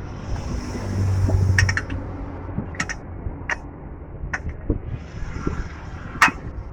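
Scattered clicks and knocks of tools and parts being handled while an oil pump is fitted to a Scania diesel engine, the loudest knock near the end, over a steady low rumble.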